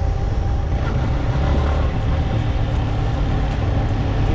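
Motorcycle running along the road, with heavy, steady wind rumble on the rider's microphone.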